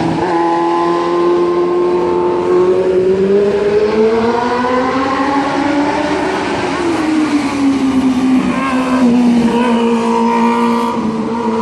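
Inline-four sportbike engines on the race track: the revs climb for a few seconds, then drop and settle to a steadier note, with more than one engine heard.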